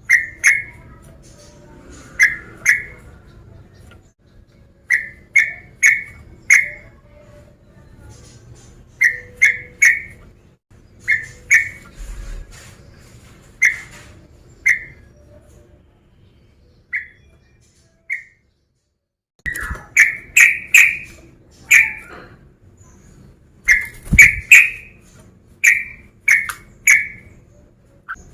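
Yellow-vented bulbul (trucukan) male singing: short, loud whistled notes in clusters of two or three, repeated every second or two, with a brief silent break near the middle.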